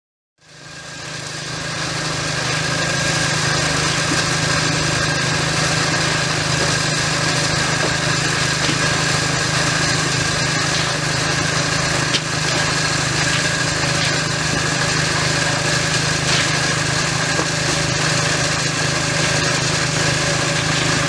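Small petrol-engine power tool running steadily at full speed, with a constant hum and a dense, hissing whine. It comes in suddenly about half a second in, builds over a second or so, then holds even.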